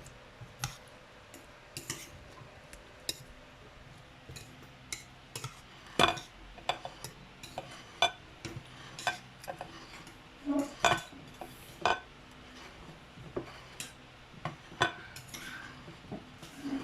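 Spoon and fork clinking and scraping against a plate during a meal: irregular sharp clicks, with several louder strikes in the second half.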